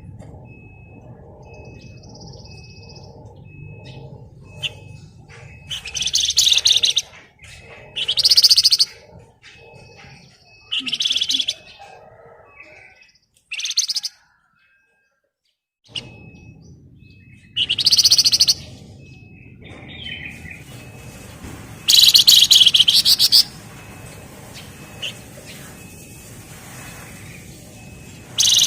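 Javan fulvetta (flamboyan) singing in short, loud, rapid rattling trills ('ngebren rapat'), about seven bursts of a second or so each, the longest near the end. A faint high peep repeats steadily underneath, and the sound drops out completely for about two seconds midway.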